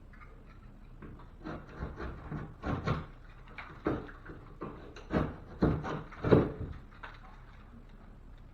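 A series of irregular wooden knocks and thumps, like lumber and drywall being handled and set in place, the loudest about six seconds in.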